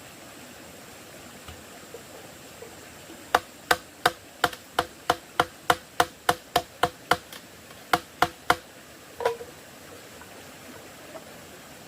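Hammering: about a dozen sharp blows at roughly three a second, a short break, three more, then one last duller knock, over a steady background hiss.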